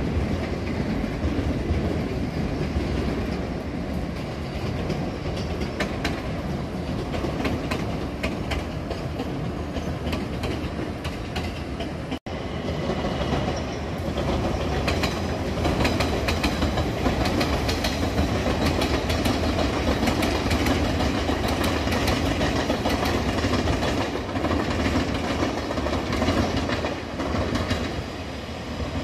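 Electric trains running on the tracks: a steady rumble of wheels on rail with many quick clicks from the wheels crossing rail joints. The sound drops out for an instant about twelve seconds in.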